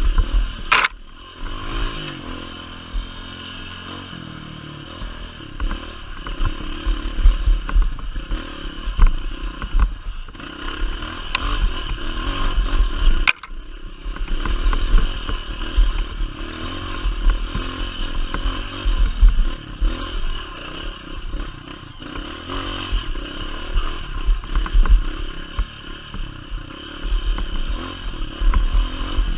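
Motorcycle engine running under way, its pitch rising and falling with the throttle, over clattering and scraping.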